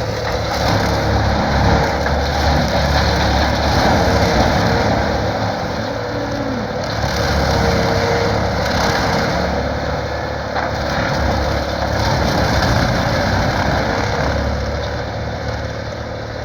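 Case IH MX210 tractor engine working hard under load, driving a Highline bale processor that is shredding a reed canary grass bale. A steady engine drone lies under the dense, even noise of the grass being ground up, swelling and easing a little.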